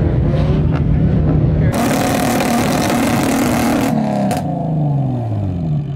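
A vehicle engine running steadily, then revved hard for about two seconds with a loud rasping exhaust, then the revs falling away over the last two seconds.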